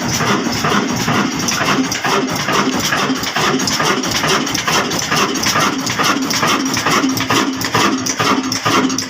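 Old diesel engine running steadily, its firing beats repeating evenly several times a second.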